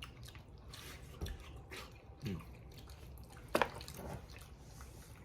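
Wet squishing, dripping and smacking sounds of boiled crawfish being peeled and eaten close to the microphone, with scattered small clicks and one sharper snap about three and a half seconds in.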